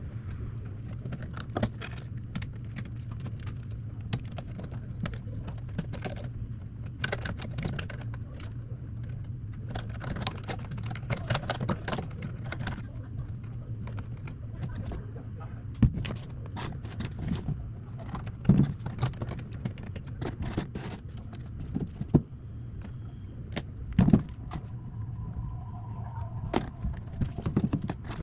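Irregular clicks and small metallic clinks of hand tools and parts being handled, over a steady low hum.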